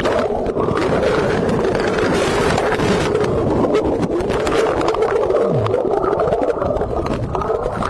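Turbulent river water rushing and splashing around a body-worn camera as an officer wades and swims against a strong current, a steady churning noise with many small splashes.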